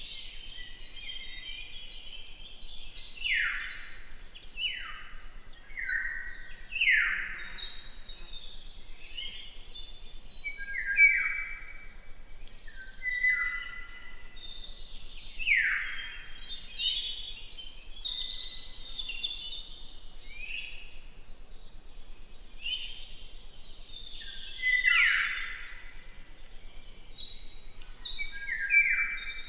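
Several birds singing and calling over one another, with loud, sharp downward-sweeping calls that recur in clusters every few seconds among higher chirps.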